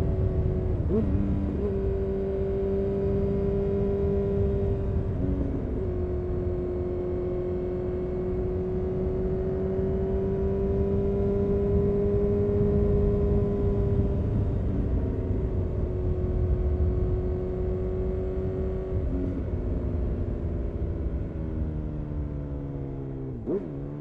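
Honda CBR929RR Fireblade's inline-four engine through an Erion full racing exhaust, running at steady revs with a few brief dips. Near the end the revs fall away, with a quick blip of the throttle. Low wind rumble runs underneath.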